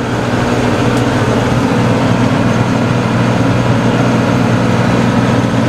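Tractor engine running steadily under load while driving a PTO rotary tiller lowered into the soil.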